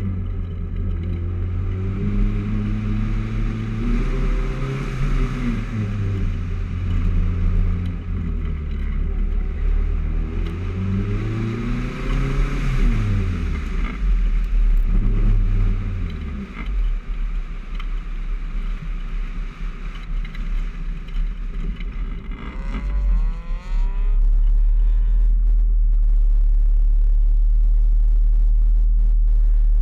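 Honda Civic engine revving hard under load, its pitch climbing and dropping again and again as the car is driven through an autocross course. About 16 seconds in the revving eases off, and for the last several seconds a steady low rumble takes over.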